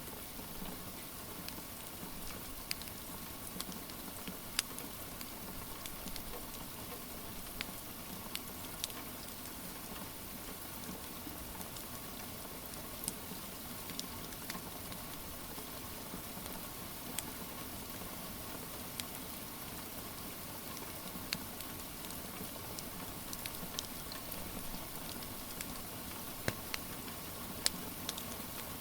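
Steady rain hiss mixed with a crackling wood fire: scattered sharp pops a second or several apart, a little more frequent near the end.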